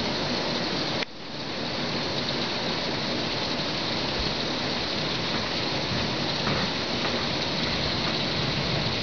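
Torrential rain, falling at about 100 mm an hour, pouring down in a dense, steady hiss. The sound drops away abruptly about a second in and swells back within a second.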